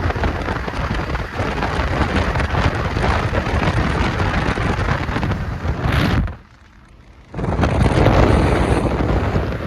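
Wind buffeting the camera's microphone: a loud, ragged rumble. It cuts out suddenly for about a second just after the middle, then comes back.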